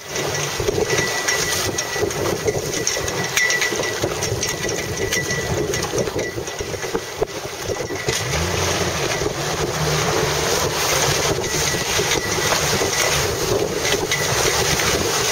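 Steady wind rushing over the microphone out on the water, with a faint low hum joining about eight seconds in.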